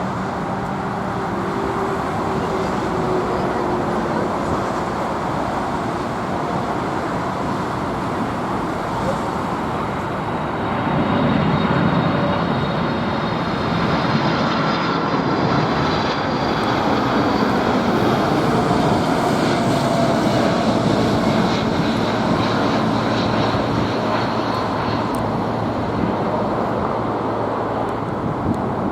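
Jet engines of a Boeing 747: a steady rushing noise that grows louder about eleven seconds in, with faint high whining tones falling in pitch around the middle.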